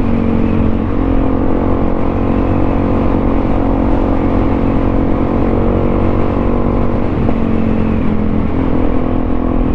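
Suzuki DR-Z400SM single-cylinder four-stroke engine running at a steady engine speed while the motorcycle is ridden.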